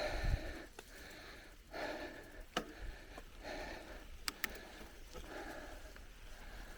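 A cyclist breathing hard in a steady rhythm, about one breath every second and a half or so, over a low rumble from the ride. A few sharp clicks and rattles come from the bike in the middle.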